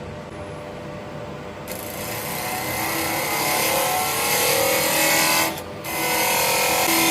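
Wood lathe turning a burr elm blank, with dust extraction droning. About two seconds in, a bowl gouge bites into the wood: a loud hissing cut that grows stronger, breaks off for a moment near the end, then resumes.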